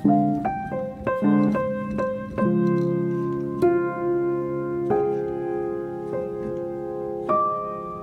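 Background piano music: a slow melody of struck notes and chords, each left to ring and fade, with the notes spacing out after about two seconds.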